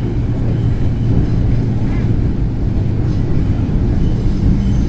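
Steady low rumble of an LRT Line 2 train running on the line, heard inside the passenger car; a low steady hum comes in near the end.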